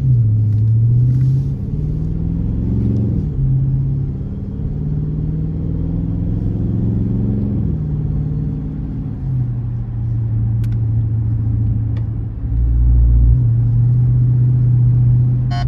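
Dodge Charger R/T's 5.7-litre HEMI V8, mid mufflers deleted, heard from inside the car while driving: the engine note climbs and drops a few times through the gears in the first eight seconds, then settles into a steady drone at cruise. A brief deep thump comes about twelve and a half seconds in.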